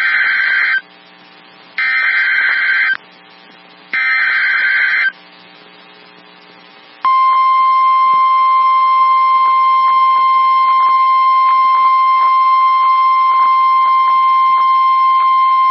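NOAA Weather Radio emergency alert: three one-second screeching bursts of SAME digital header data with short pauses between them, then from about seven seconds in the steady single-pitched 1050 Hz warning alarm tone, which marks a weather warning being issued.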